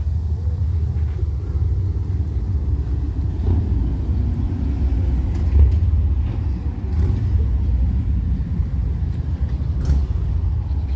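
Wind buffeting the microphone: a steady, fluttering low rumble with a few faint clicks.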